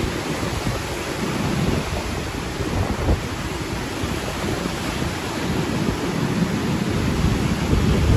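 Strong wind buffeting the microphone: a low, rumbling rush that swells and eases in gusts, growing stronger near the end.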